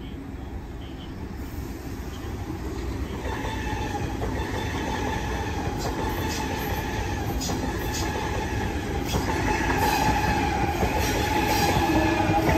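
Double-deck electric passenger train running past at the platform, getting steadily louder as it comes alongside. Its wheels click over the rail joints and squeal with a few steady high tones that grow stronger in the second half.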